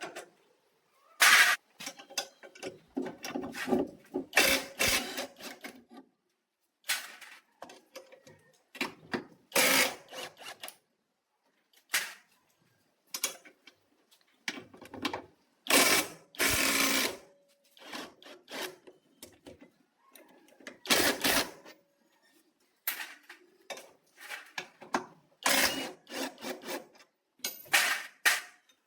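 Irregular knocks, clicks and scrapes of hand tools and parts being handled and worked, in short bursts separated by silent gaps.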